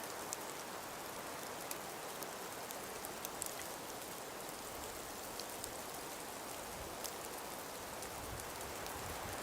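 Wind and falling snow: a steady hiss with scattered faint ticks of snow striking, and a low gust of wind rumbling near the end.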